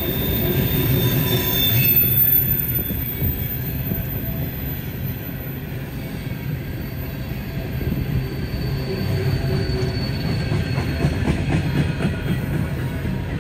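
Freight train cars rolling past on the rails in a steady rumble, with thin high wheel squeals rising over it now and then.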